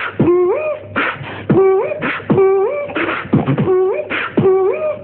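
Beatboxing: mouth-made kick drum and hissing snare sounds in a steady repeating loop, with a short pitched hum that slides upward once in every bar, about once a second.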